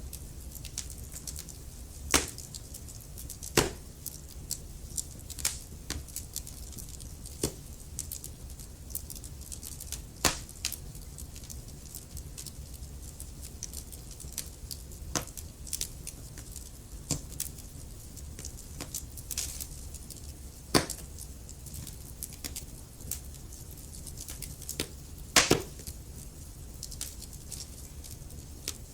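Wood fire crackling in a fireplace: a constant scatter of small irregular crackles with a few louder pops, over a low steady rumble.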